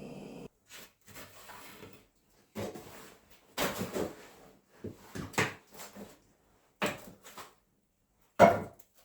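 Irregular wooden knocks, clunks and scrapes, as of wood being handled, with a sharp knock near the end the loudest.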